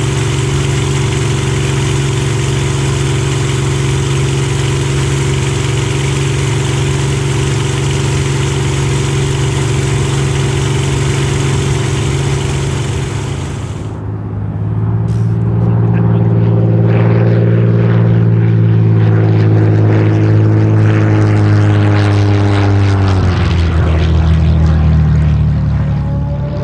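Supermarine Spitfire's Rolls-Royce Merlin V12 engine running at a steady drone. After a cut about halfway through, the engine is louder and then drops in pitch a few seconds before the end.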